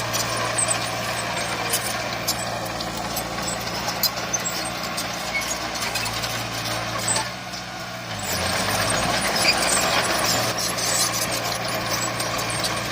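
Heavy diesel earthmoving machinery, a bulldozer or dump truck, running steadily with sharp rattling and clanking over the engine. About seven seconds in the sound drops briefly and the engine note goes lower for a couple of seconds, then the usual running resumes.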